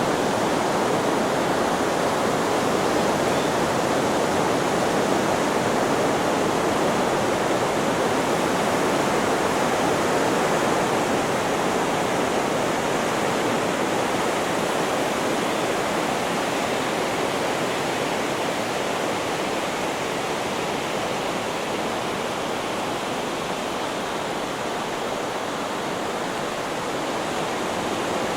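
Steady, even rushing noise of ocean surf blended with white noise, with no separate wave breaks, easing slightly near the end.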